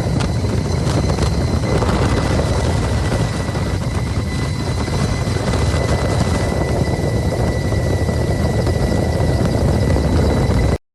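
Helicopter flying close by: a loud, steady rotor and engine noise with a thin whine held over it, cutting off abruptly near the end.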